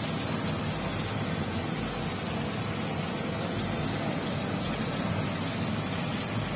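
Chicken pieces frying in oil in a grill pan: a steady sizzle with a low rumble underneath.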